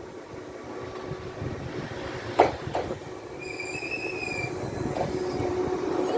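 Electric train on the JR Ube Line running and growing louder, with two sharp clacks about midway and a brief high wheel squeal just after. A steady hum comes in near the end.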